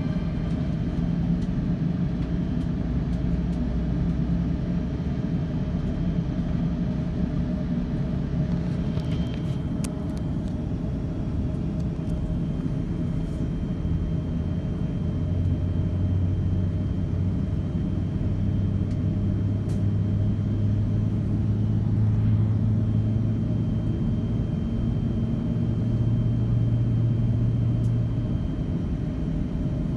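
Airbus A350-900 cabin rumble during pushback, with a steady low hum. About halfway through, a stronger low hum comes in and slowly rises in pitch as an engine spools up during start.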